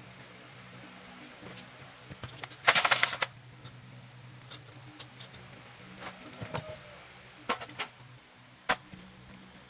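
Small clicks and taps from tools or metal parts being handled, with one short, loud scraping or hissing burst about three seconds in, over a faint steady hum.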